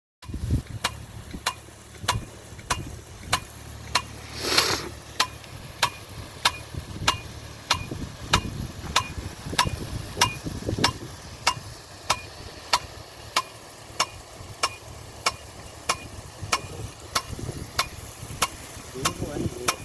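Automatic impact rain gun sprinkler running: its swing arm clacks in a steady rhythm, about one and a half to two sharp clicks a second, over the hiss of the water jet. A louder rush of spray comes about four and a half seconds in.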